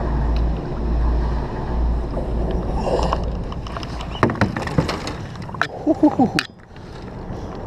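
A plastic kayak being launched into a creek: knocks and a scrape of the hull, bunched between about four and six and a half seconds in, in a rough landing into the water. Before them, a steady low wind rumble on the microphone; after them it goes quieter.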